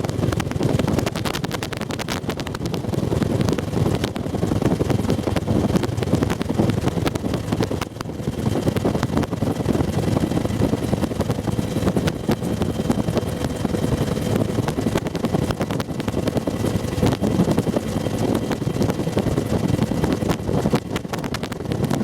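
Bell UH-1 Huey helicopter in flight, heard from a gunner seat in the cabin: steady rotor and turbine engine noise with a faint steady whine, and wind buffeting the microphone.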